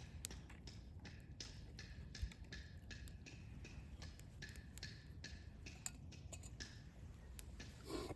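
Small wood fire crackling, with irregular sharp pops and ticks several times a second over a low rumble, and a short, louder rustling burst near the end.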